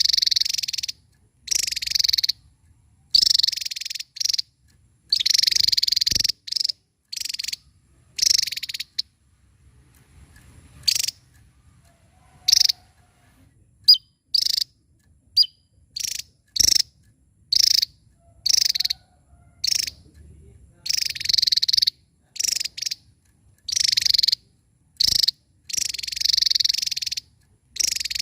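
Javan tesia singing: repeated bursts of high, rapid, buzzy notes, some brief and others running over a second, with short pauses between them.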